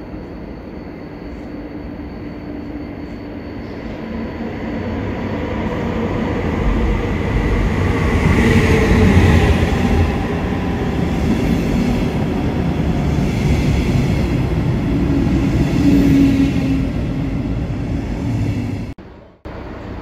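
A train running through a railway station, growing louder over the first eight seconds or so and then staying loud, with a few faint steady whining tones over the rumble. The sound cuts out abruptly for a moment near the end.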